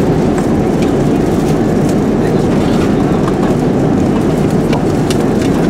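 Steady airliner cabin noise in flight, an even rush of engine and airflow. A few faint clicks are heard over it.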